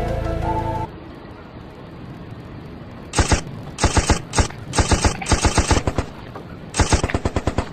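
Several volleys of rapid sharp cracks, about eight to ten a second, with short gaps between them, like automatic gunfire.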